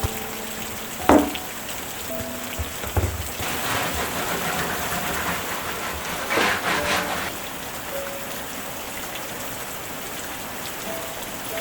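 Steady rain falling on a surface, with a few sharper knocks about a second in and three seconds in, and heavier patches of drops around the middle.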